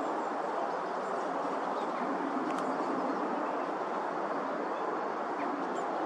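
Steady rushing outdoor background noise, with faint bird chirps now and then and a single small click about two and a half seconds in.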